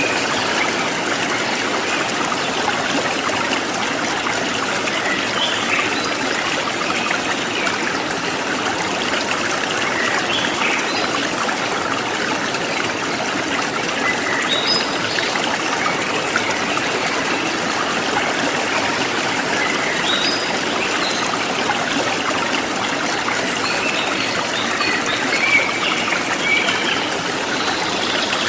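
Forest stream flowing and trickling steadily, with scattered short bird chirps above it.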